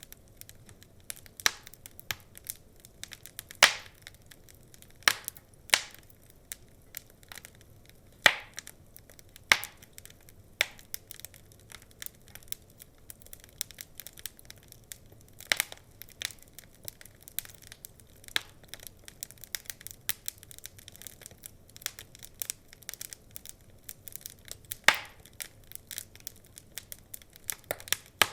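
Wood fire crackling in a fireplace: a steady scatter of small irregular pops and ticks with a handful of louder sharp snaps.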